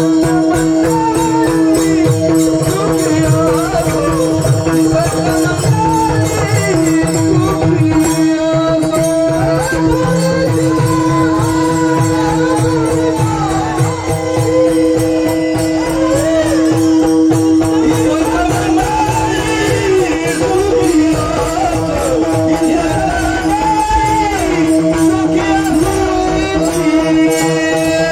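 Warkari kirtan chal sung by a male singer, the voice gliding through long ornamented phrases over a steady held drone, with jingling percussion and a drum keeping an even beat.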